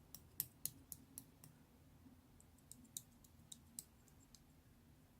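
Slime being pressed and worked by hand, giving small crisp clicks and pops: a quick run of about six in the first second and a half, then a looser run of clicks a couple of seconds later.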